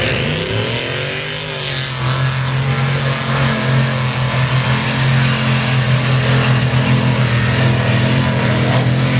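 Mud-bog truck engine revving near the start, its pitch rising and falling, then running loud and steady at a held speed.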